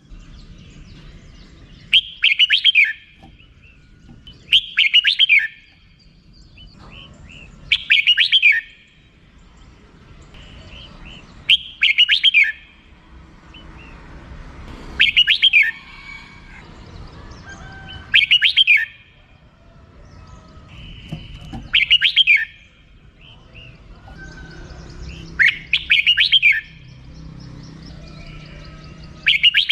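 Red-whiskered bulbul giving its 'rik' call: short bursts of rapid, sharp chirps, repeated about every three seconds, nine times.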